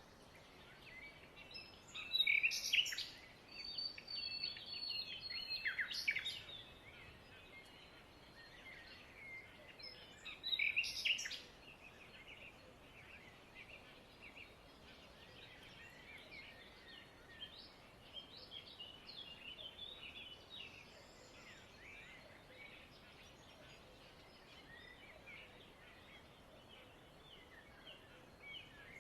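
Many small birds chirping and twittering, with several louder bursts of calls in the first half and lighter continuous chirping after.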